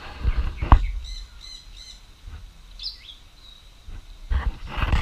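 Birds calling: a quick run of three short chirps about a second in and another chirp near the middle, with loud, harsh bursts at the start and again near the end.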